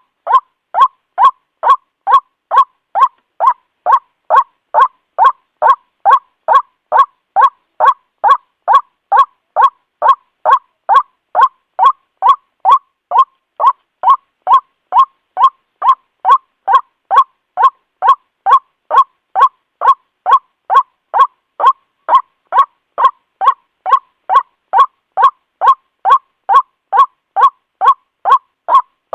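White-breasted waterhen (Amaurornis phoenicurus) call recording played as a bird lure: one short, harsh note repeated evenly about twice a second without a break.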